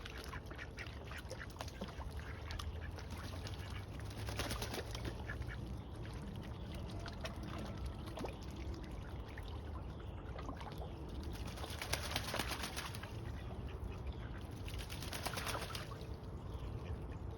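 Ducks quacking and calling, with three short bursts of noise spread through.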